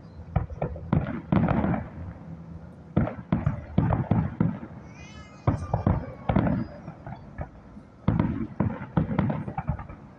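Fireworks display going off: clusters of sharp bangs and booms echoing after each burst. A brief high warbling whistle sounds about halfway through.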